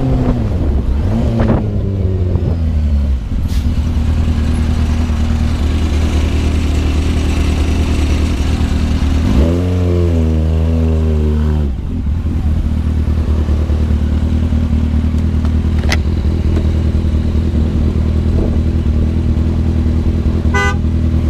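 Vehicle engine running steadily, its pitch falling over the first few seconds. A horn sounds for about two seconds near the middle, and a few short high beeps come near the end.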